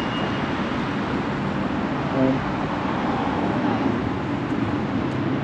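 Steady city street traffic noise: a continuous wash of passing cars.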